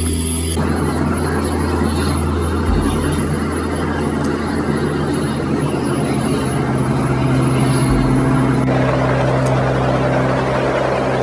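Aircraft engines running with a steady, loud drone and rushing noise, which shifts abruptly twice.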